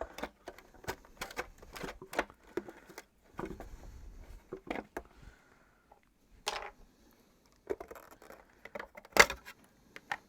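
Parts of a Miele vacuum cleaner being handled during disassembly: irregular clicks, taps and rattles, with one louder knock about nine seconds in.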